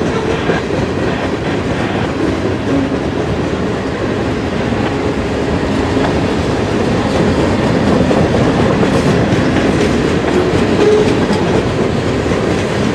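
Freight cars of a passing manifest freight train rolling by, their steel wheels running on the rails in a steady, loud noise.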